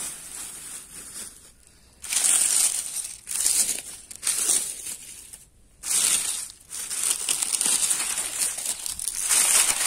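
Close rustling and crunching of wild greens being picked and handled, in loud bursts starting about two seconds in and again from about six seconds in.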